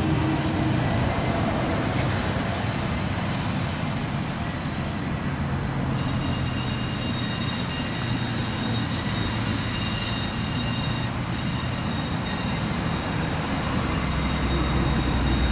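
A train rolling slowly along the tracks, with steady running noise and a low hum. From about six seconds in there is a high thin wheel squeal, fading after about five seconds.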